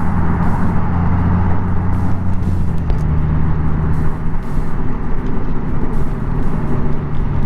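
Honda Gold Wing's flat-six engine running at road speed under steady wind and road noise; the engine note drops slightly about three seconds in.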